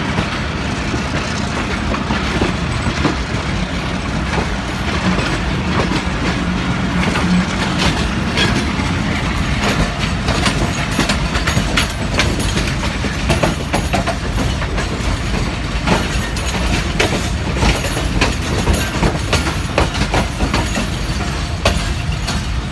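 Railway coaches rolling slowly past, their wheels clacking over rail joints above a steady low rumble; the clacks come thicker from about eight seconds in.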